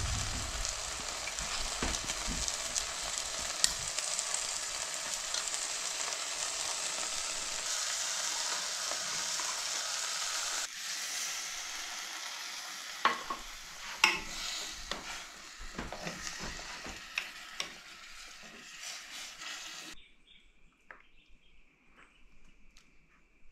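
Food frying in a hot pan: a steady, dense sizzle that turns into scattered pops and crackles about ten seconds in. It cuts off suddenly near the end, leaving a faint high steady tone and a few light clicks.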